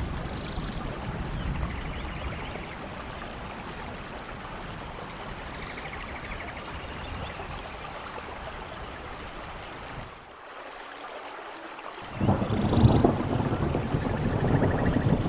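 Steady rain falling. A louder low rumble of thunder comes in for the last few seconds.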